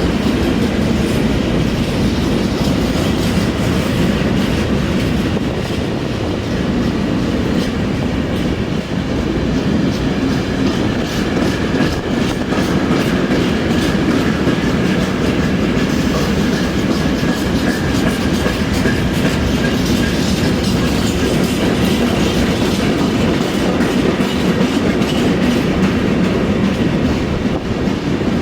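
A train running on the rails with a steady rumble and the clickety-clack of wheels over rail joints. A faint high wheel squeal sounds through the middle.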